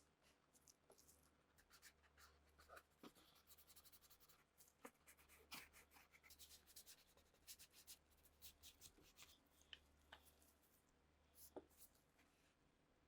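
Faint rubbing and scratching by hand, with scattered light clicks and ticks.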